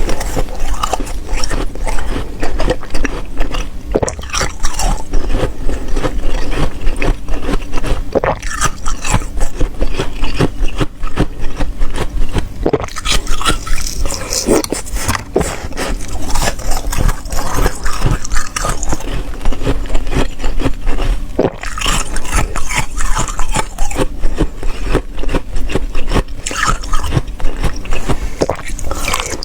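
Ice being bitten and chewed right at the microphone: a dense, unbroken run of sharp crunches.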